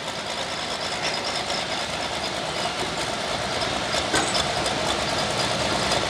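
Diesel pickup truck engine running steadily, growing gradually louder.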